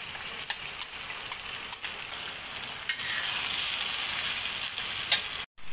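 Sauce sizzling in hot oil in a wok as it is poured in and stirred, with a metal spatula clicking and scraping against the wok now and then. The sizzle gets louder about three seconds in, and the sound cuts out for a moment near the end.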